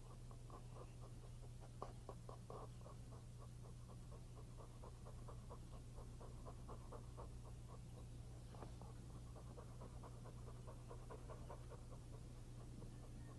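Springer spaniel panting quickly and faintly, about five breaths a second, over a steady low hum.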